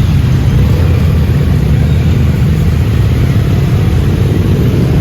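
Many motorcycles riding together in a group, their combined engines and exhausts making a loud, steady, deep sound.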